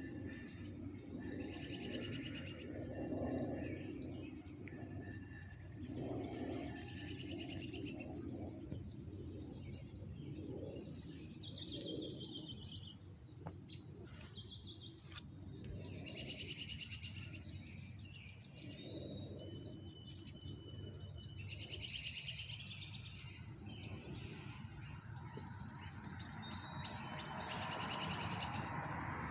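Several songbirds chirping and singing in short, overlapping calls, over a low steady background rumble.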